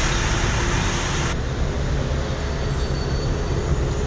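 Steady low rumble of a large vehicle's engine running, with a loud hiss over it that cuts off suddenly about a second in.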